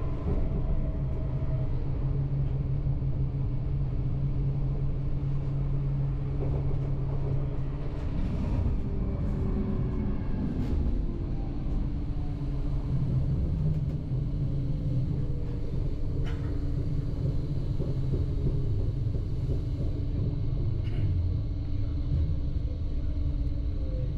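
Train running at speed, heard from inside the passenger car: a steady rumble of wheels on track with a constant low hum. A few tones slide down in pitch about a third of the way in and again past the middle, with a few sharp clicks along the way.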